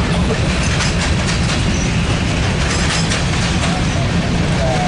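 Freight train cars rolling past at close range: a loud, steady rumble of wheels on the rails with scattered clicks from the wheels.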